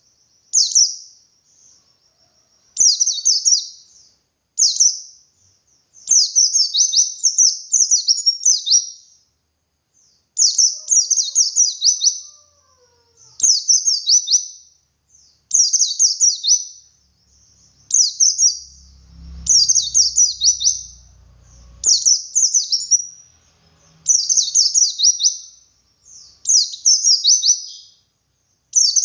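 White-eye (pleci) singing: repeated short phrases of rapid, high, falling notes, one after another with brief pauses. This is the long-running 'ngalas' song with 'wit wit' variations, used as a lure to set other white-eyes singing.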